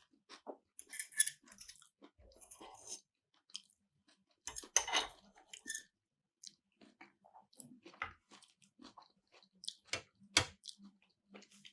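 Close-miked chewing of keto sushi: irregular wet mouth clicks and crunches, with louder bursts about a second in, about five seconds in and near the end.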